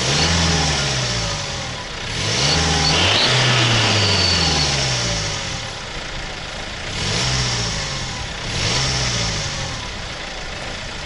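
BMW X3 2.0d four-cylinder turbodiesel revved four times from idle through a tailpipe turbo-whistle nozzle: a short blip, one longer rev, then two more blips. Only a faint high whistle shows briefly over the longest rev, and the nozzle gives little turbo-like sound, which the owner puts down to his exhaust pipe being too wide for it.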